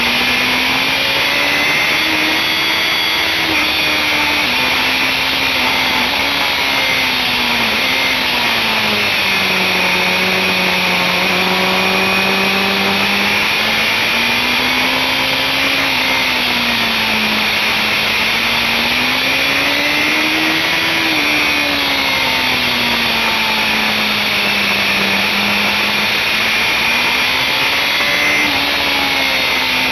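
BMW S1000RR inline-four engine at high revs on track, its pitch rising and falling smoothly every few seconds through the corners, heard from the bike under a loud rush of wind on the microphone.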